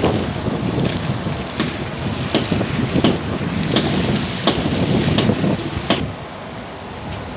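Rumbling noise like wind on the microphone, with a sharp knock about every three-quarters of a second; the rumble eases about six seconds in.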